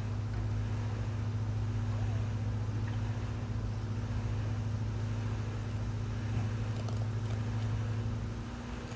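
Steady low mechanical hum from a running machine, unchanging throughout.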